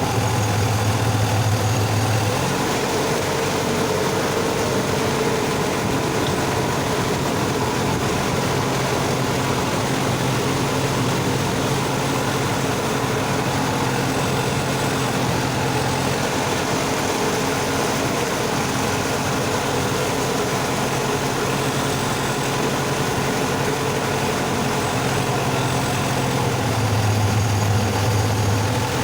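Sonalika tractor's diesel engine running steadily while driving a rotavator, with a deeper, stronger hum for the first couple of seconds and again near the end.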